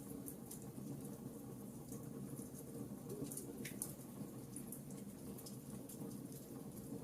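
Logs burning in a fireplace, crackling: irregular sharp pops and ticks, several a second, over a steady low rush from the fire, with a slightly louder pop a little past the middle.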